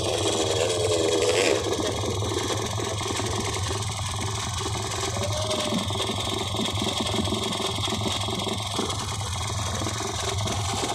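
Small motorcycle engine idling steadily, with a brief wavering sound over it during the first second and a half.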